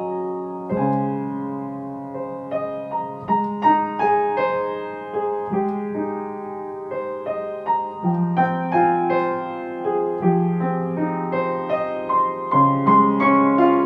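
Slow, gentle solo piano music: sustained low chords with single melody notes picked out above them.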